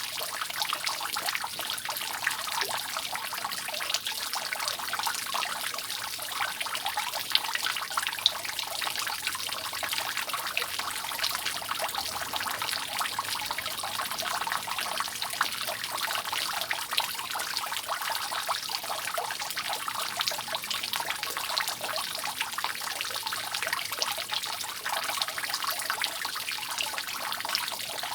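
Rainwater dripping and trickling from a leaking roof: a steady dense patter of many small drops over a continuous trickle, with a couple of slightly louder drips about seven and eight seconds in.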